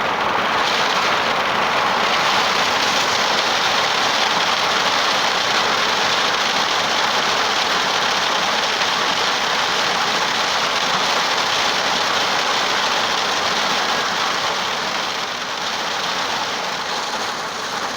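Heavy rain pouring on a car's roof and windows, heard from inside the cabin: a dense, steady hiss that eases slightly near the end.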